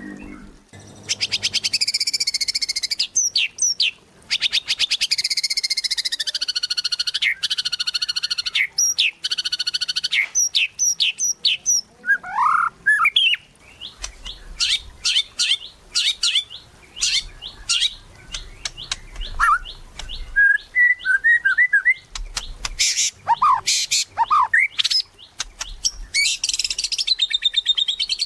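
White-rumped shama (murai batu) singing a varied, loud song: long buzzy rattling trills at the start and again near the end, with rapid sharp clicking notes and a few short whistled upslurs in between.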